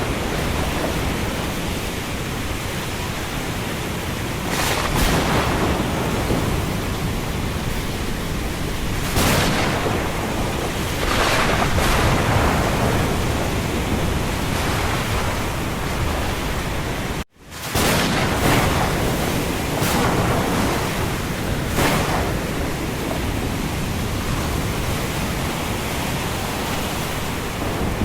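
Thunderstorm and windstorm noise: a steady roar of wind and rain with a deep rumble underneath and gusts swelling every few seconds. The sound cuts out for an instant about two-thirds of the way through.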